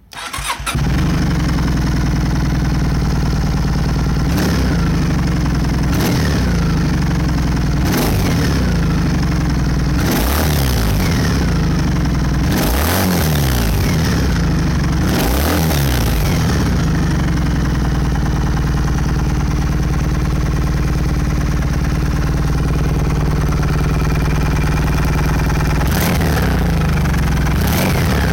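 Kawasaki W650's air-cooled parallel-twin engine starting up through its mufflers and settling into a steady idle. The revs are blipped up and back down several times in the first half, and twice more near the end.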